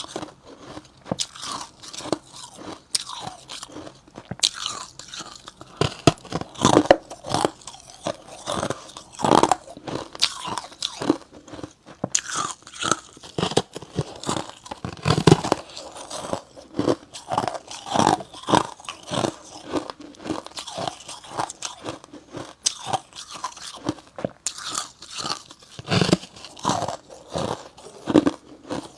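Slabs of freezer frost being bitten and chewed: irregular, crisp, crunchy bites and grinding chews, several a second, with brief pauses between mouthfuls.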